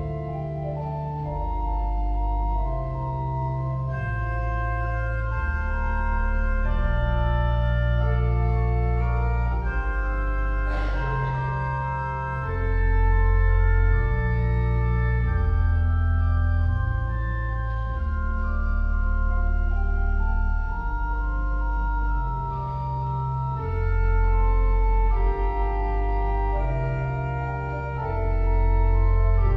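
Church organ playing slow, held chords over deep bass pedal notes that change every second or two. A brief noise, like a cough, cuts through about a third of the way in.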